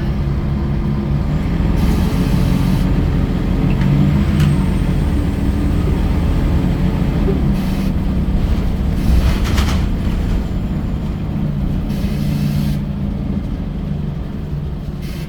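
Scania L94UB single-deck bus's diesel engine running steadily, with several short hisses of air from the air brakes.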